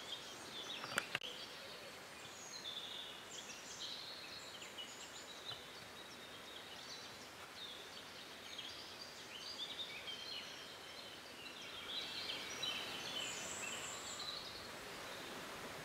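Birds singing and chirping in the background, a scatter of short high calls over a faint outdoor hush, with a single sharp click about a second in.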